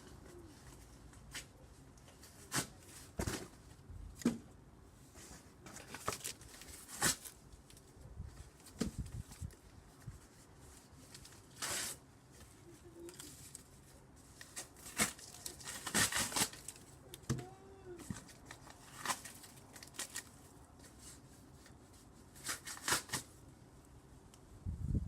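Cardboard being torn and knocked about: irregular short knocks and tearing rustles every second or so, with two short chirping calls a little past the middle.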